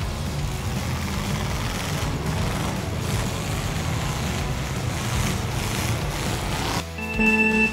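Race-car engine sound effect, a steady rumbling run for the toy race cars driving over sand. Near the end it gives way to steady electronic tones.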